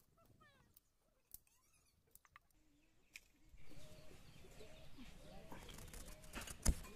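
Small birds chirping faintly, then from about three and a half seconds in a louder outdoor background with short low animal calls, and one sharp knock near the end.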